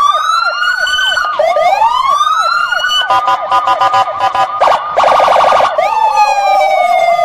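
Electronic siren tones cycling through several patterns: rising and falling wails with quick repeating yelps, then a fast two-tone warble, a very rapid pulsing stretch, and near the end a long slowly falling tone.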